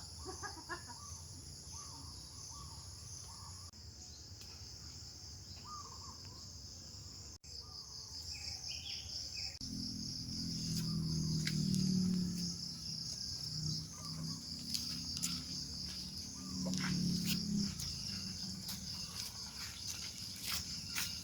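Insects chirring steadily in a high, evenly pulsing drone. A low rumble swells in about halfway through and is the loudest part, and scattered clicks come near the end.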